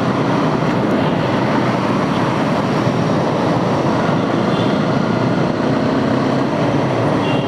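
Motorcycle riding along, its engine running steadily under a constant rush of road and wind noise.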